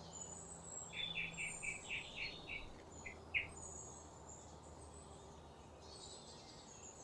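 Faint birdsong: a quick run of short repeated chirps, about four a second, for a couple of seconds, with a few thin higher calls around it.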